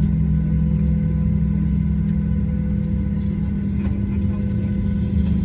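Steady low drone inside the cabin of a Boeing 737-923ER, with a faint steady whine above it, from the aircraft's air-conditioning and onboard systems.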